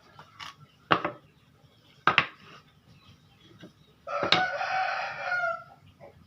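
Two sharp knocks, wood being handled or struck, then a rooster crowing once for about a second and a half.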